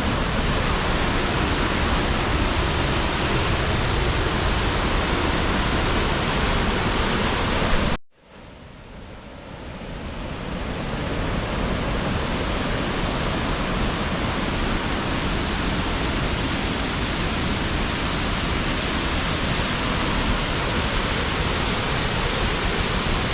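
Waterfall: a steady, even rush of falling water. It cuts off abruptly about eight seconds in, then fades back up over the next few seconds.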